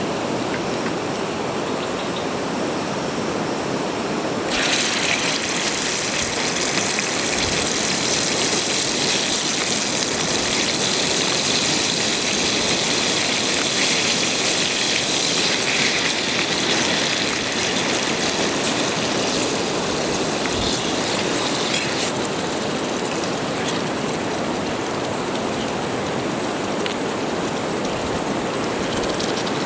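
Steady rain with wind and breaking surf, an even wash of noise. A brighter hiss joins about four seconds in and drops away about eighteen seconds later.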